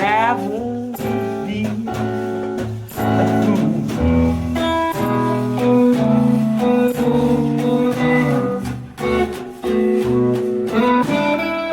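Guitar playing an instrumental break in a bluesy original song, with plucked single notes and chords ringing in quick succession and a fast pitch slide at the very start.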